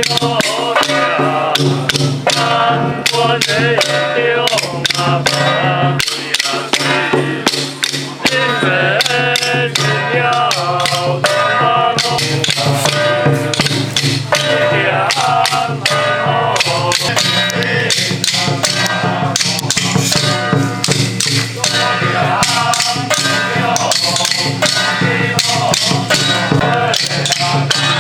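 Ritual music: a melody played or sung over dense, rapid percussion strikes such as wood block and gongs, with a steady low drone underneath.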